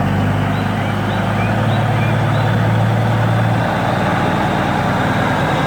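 Engine of a large farm harvester running steadily with a low, even hum whose tone shifts slightly a little past halfway. Small bird chirps sound faintly above it.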